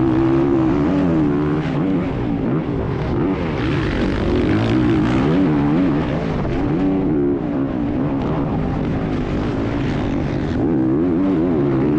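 Dirt bike engine running under load, its pitch rising and falling quickly and repeatedly as the throttle is worked.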